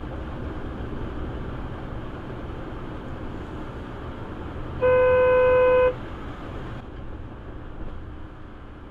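A car horn sounds once, a single steady blast of about a second, over steady road noise from a moving vehicle.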